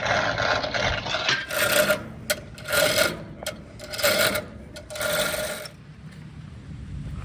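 A rough rasping scrape, steady at first and then in four strokes about a second apart, dying away near the end.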